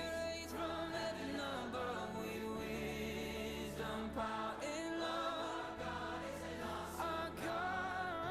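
Christian worship song: choir-like singing voices over sustained low bass notes.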